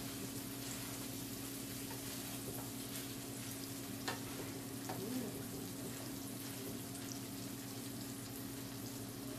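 Fried rice sizzling in a nonstick wok over a gas burner while it is stirred and turned with a wooden spatula, with a sharp click of the spatula about four seconds in. A steady low hum runs underneath.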